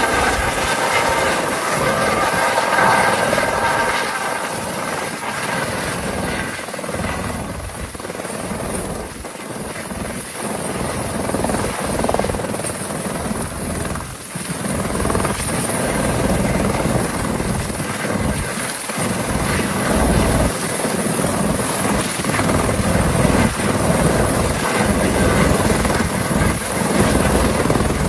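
Helicopter running, its rotor and engine giving a loud, steady noise.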